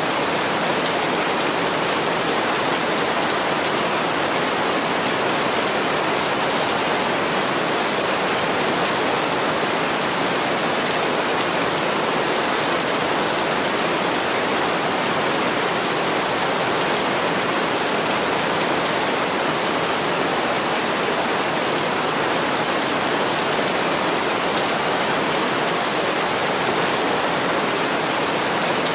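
Heavy rain falling steadily on a window: an even, unbroken hiss.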